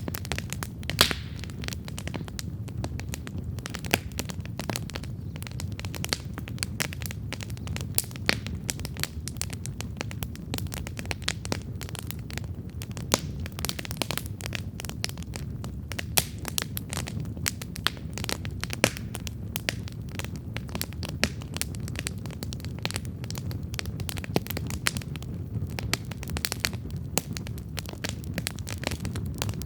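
Campfire of burning wood crackling steadily, with a constant low rumble of the flames under frequent sharp pops and snaps.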